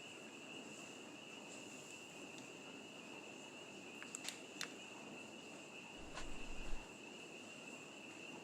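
Steady high-pitched trilling of night insects such as crickets. A couple of sharp clicks come about four seconds in, and a short low thump about six seconds in.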